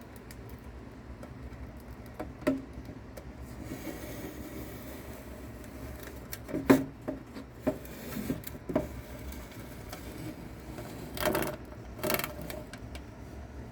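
Scattered sharp taps and short scraping rustles from a mouse and a live cicada struggling in a small enclosure, over a low steady hum. The loudest tap comes about six and a half seconds in, and two brief rough scrapes follow near the end.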